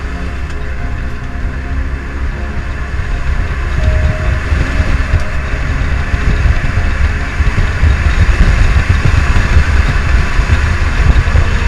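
BMW E28 engine and road noise heard from inside the cabin while driving. It gets louder about three seconds in and again around six seconds as the car pulls harder.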